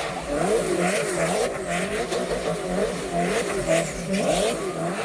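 Car engine revving up and down repeatedly, its pitch rising and falling about twice a second.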